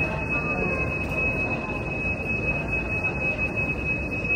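Railway station concourse hubbub, with a steady high-pitched tone over it.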